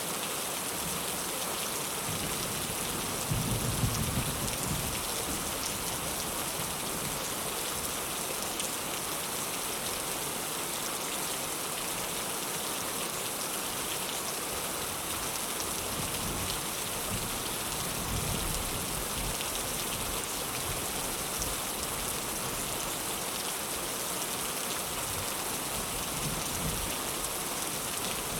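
Heavy rain falling in a steady, even hiss, with a few low rumbles of thunder, the loudest about four seconds in.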